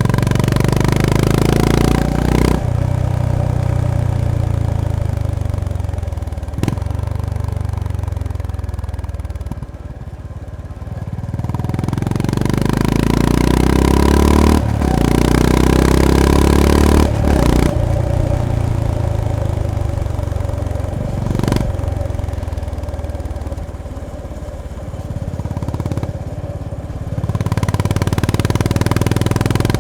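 Honda GB350S (CB350RS) single-cylinder engine under way, revving up several times with short breaks in the note between climbs, and easing off in between.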